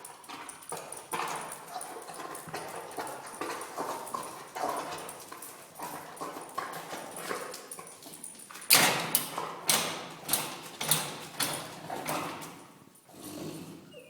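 Dog in an epileptic seizure, its convulsing body and legs making rhythmic knocking and scrabbling sounds. The knocks become much sharper and louder about nine seconds in, at about two a second, then fade off near the end.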